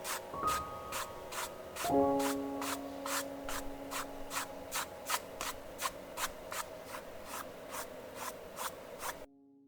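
Paintbrush strokes scratching on canvas in an even rhythm, about three a second, over soft music with held notes. The strokes stop suddenly near the end, leaving only the music.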